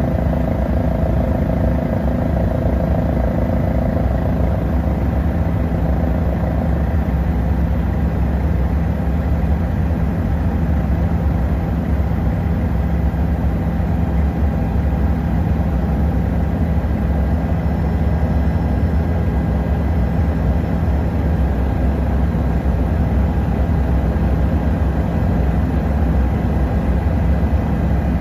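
Helicopter's engine and rotor drone, steady and unbroken, with a low hum and fainter steady tones above it.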